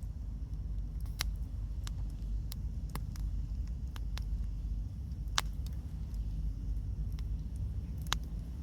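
Wood bonfire crackling, with sharp pops at irregular intervals, the loudest about five seconds in, over a steady low rumble.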